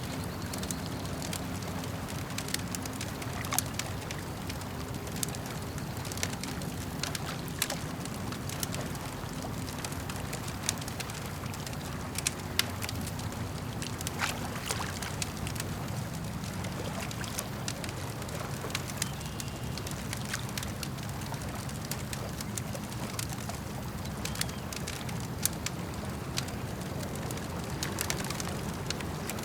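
Campfire crackling, with frequent sharp pops and snaps scattered irregularly over a steady low rumble of lapping lake water.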